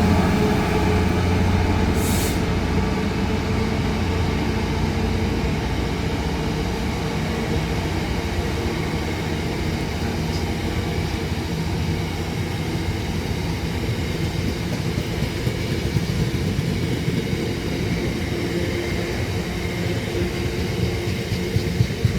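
Class 66 diesel locomotive's two-stroke V12 at full power (notch 8) passing, its engine note fading after the first few seconds. It is followed by the steady rumble and clatter of a long train of loaded aggregate hopper wagons rolling by.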